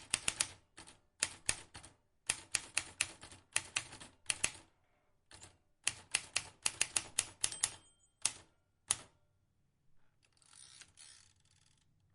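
Vintage typewriter keys striking in quick runs of sharp clacks, with short pauses between the runs. Near the end comes a short rasping noise.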